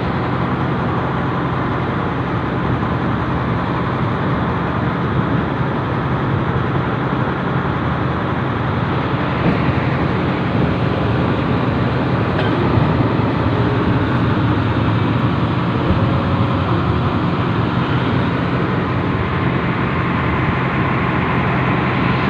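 Industrial freight train running steadily, heard from on board: a constant loud engine drone and rumble that does not let up.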